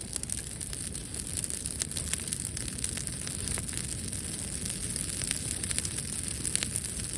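Wood bonfire crackling, with many irregular sharp pops over a steady high hiss.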